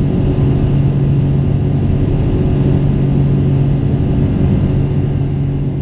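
Boeing 777-200 airliner's engines and airflow heard from a window seat inside the cabin: a steady, loud drone and rumble with an even low hum.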